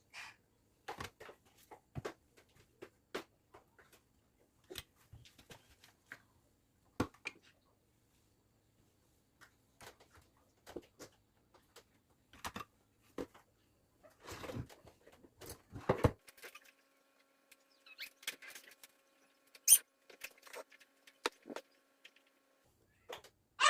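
Scattered light clicks, taps and knocks of small objects being handled, with a busier stretch of handling a little past the middle. A faint steady hum sets in about two-thirds of the way through.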